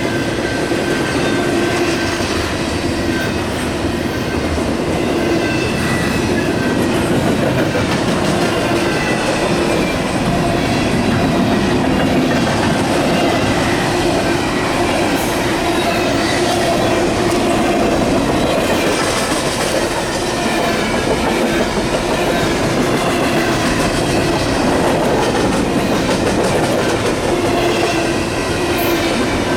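Union Pacific double-stack container train rolling steadily past: continuous wheel-on-rail noise with clickety-clack over the rail joints and faint ringing wheel tones.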